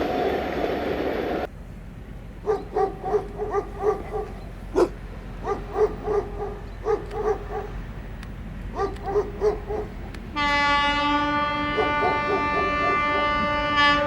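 A train's rumbling noise cuts off abruptly about a second and a half in, and a dog then barks repeatedly in quick runs of short barks. About ten seconds in, a locomotive horn sounds one long steady blast, the loudest sound here, with the dog still barking under it.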